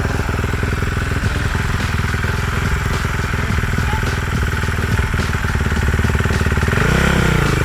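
Small single-cylinder off-road engine running close by at a steady low speed, with a brief rev up and back down near the end.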